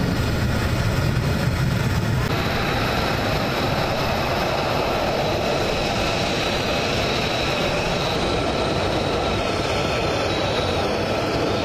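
F-22 Raptor's twin Pratt & Whitney F119 turbofan engines running, a loud, steady jet noise that changes slightly about two seconds in.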